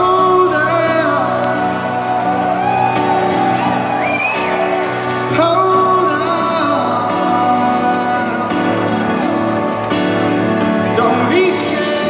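Live band performing a ballad in a large venue: a male voice sings over sustained guitar and band chords.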